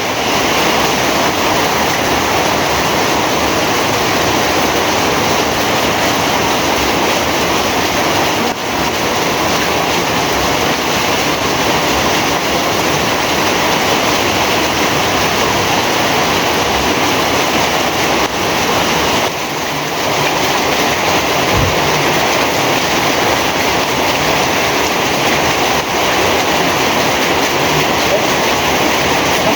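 Heavy rain pouring down in a steady, dense hiss, dipping briefly twice.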